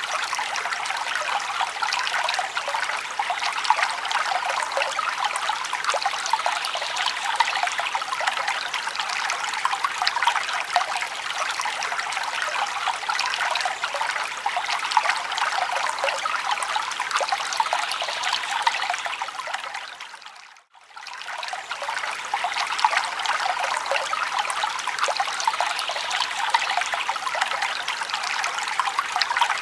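Forest stream babbling and trickling steadily over rocks, a dense patter of small splashes. About two-thirds of the way through, the sound briefly fades out and comes straight back.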